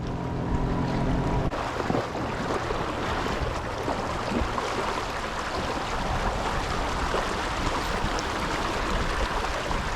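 Rushing river current, a steady wash of flowing water. Under it, a steady hum cuts off about a second and a half in.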